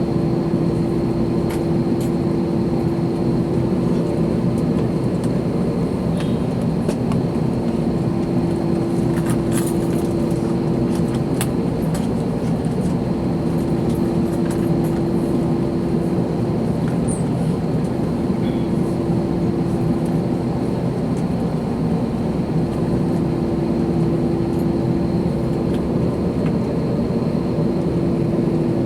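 Steady cabin noise inside an Airbus A321: engine and air-conditioning noise with a droning hum that fades and returns several times. A few faint clicks sound over it.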